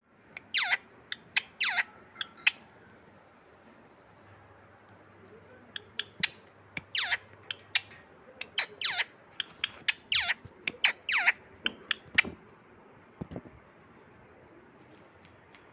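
Parrot calling: short, loud calls that drop sharply in pitch, mixed with sharp clicks, in two bouts, falling quiet about 12 seconds in.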